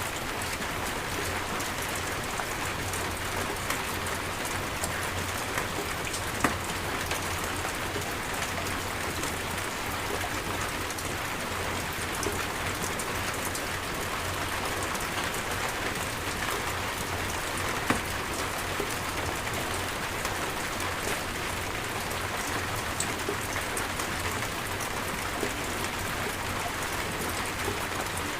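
Steady rain falling: an even, dense hiss of drops, with a few louder single drops ticking close by, about six seconds in and again near eighteen seconds.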